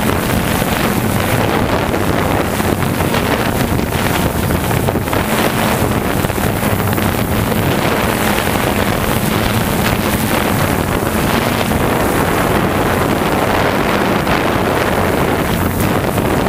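DJI Phantom quadcopter's motors and propellers whirring steadily, with a low hum under heavy wind noise on the microphone.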